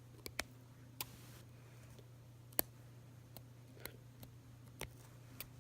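Handling noises: about eight irregular sharp clicks and taps as a small bird is worked free of a towel by hand, over a steady low hum.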